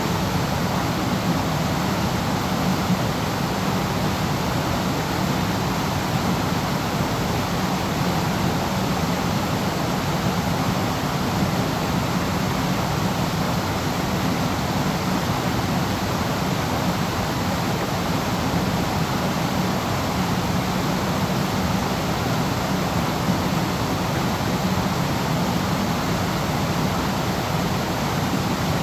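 Waterfall: water falling in a steady, even rush with no breaks or changes.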